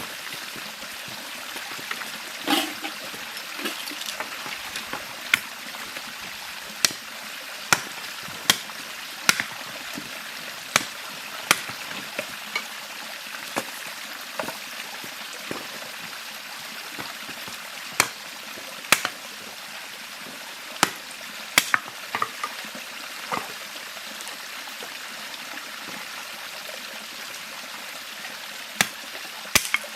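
A river flowing steadily, with a series of sharp knocks at irregular intervals, often a second or two apart and loudest in places.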